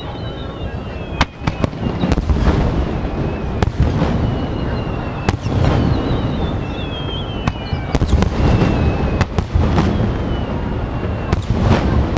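Aerial fireworks display: shells bursting in a rapid, irregular series of sharp bangs over a continuous low rumble of explosions and their echoes. Thin high whistling tones glide slowly down in pitch at several points.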